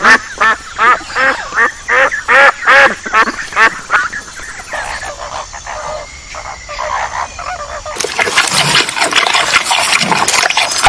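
Ducks quacking in a fast run of loud quacks, about three a second. After about four seconds, a flock of flamingos calls more quietly in a mixed honking chatter. From about eight seconds in comes a crackly crunching of a giant panda chewing a bamboo shoot.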